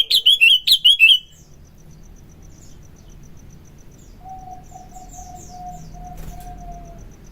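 Sooty-headed bulbul (kutilang) singing: a quick run of about six loud, sweeping whistled notes in the first second or so, then quieter. Faint high chirps, a fine steady high ticking, and a soft held low whistled note from about four seconds in sit underneath.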